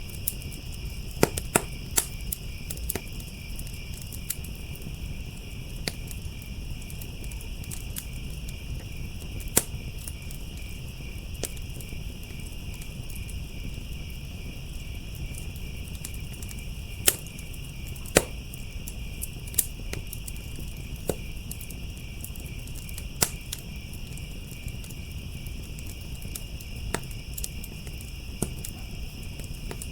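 Wood fire crackling with sharp pops at irregular intervals, a few of them loud, over a steady chorus of crickets chirping.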